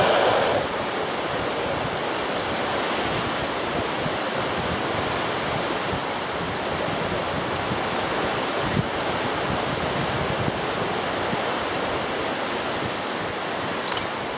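Strong wind buffeting the microphone: a steady rushing noise with a flickering low rumble.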